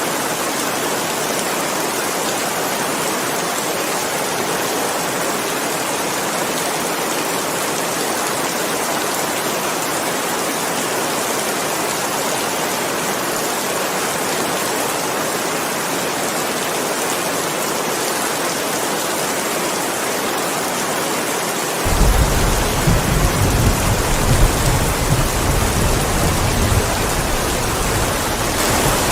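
Steady heavy rain falling, a continuous even hiss. About three-quarters of the way through, a low rolling rumble of thunder sets in suddenly and keeps going, louder than the rain.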